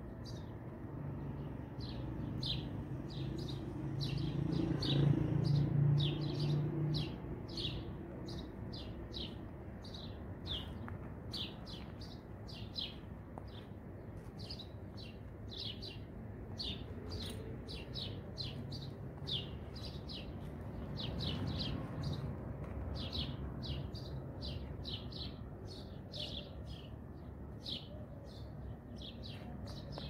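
A small bird chirping over and over, short high chirps about twice a second. Under it is a low rumble that swells briefly about five seconds in.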